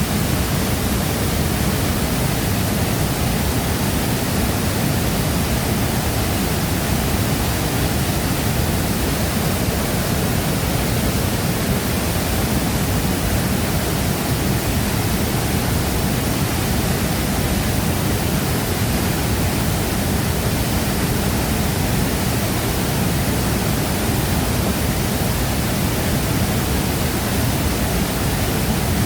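A large waterfall's water falling and crashing into its plunge pool, a loud, steady, unbroken rush.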